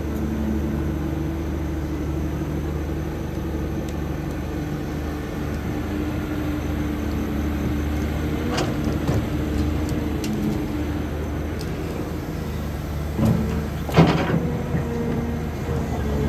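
Cat 320D excavator's ACERT diesel engine running steadily, with a few short knocks near the end, one of them clearly louder than the rest.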